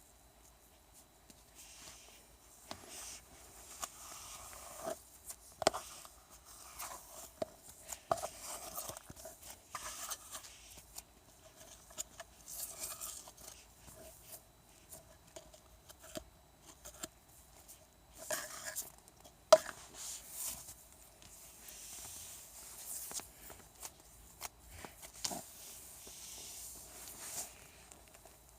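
Irregular rustling and scraping of small objects being handled, with scattered sharp clicks and taps.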